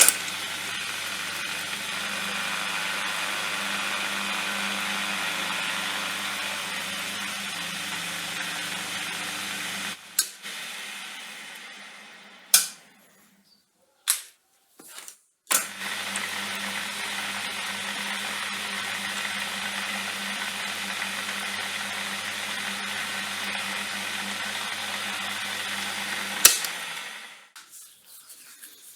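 A small machine tool's electric motor running steadily for about ten seconds, stopping, then running again for about ten more seconds before it is switched off. A few sharp clicks sound in the pause between the two runs, and a loud click as it stops near the end.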